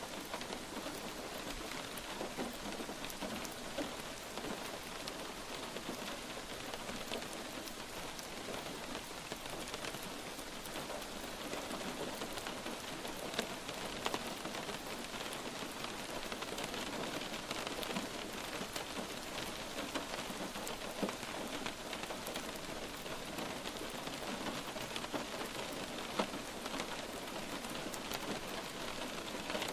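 Steady light rain falling on a surface, an even hiss with scattered individual drop ticks and a few sharper drop hits.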